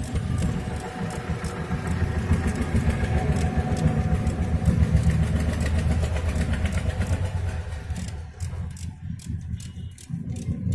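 An engine running steadily, with a stream of sharp clicks over it; it drops away for a couple of seconds near the end, then comes back.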